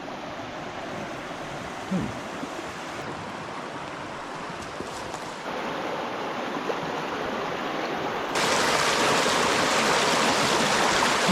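River water running over rocks, a steady rushing wash. It gets louder about halfway through and again, more sharply, about three quarters of the way through.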